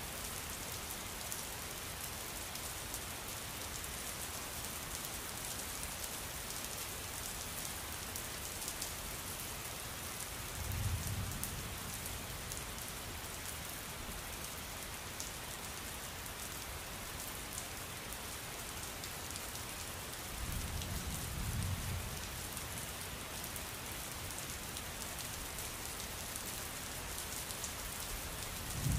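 Steady rain falling, a constant hiss, with low rumbles of distant thunder rolling in twice.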